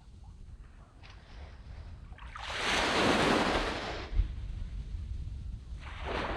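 Small waves breaking on a sandy beach: a wave swells and washes in about two and a half seconds in, fading out by four seconds, and a smaller one comes in near the end, over a low rumble of wind on the microphone.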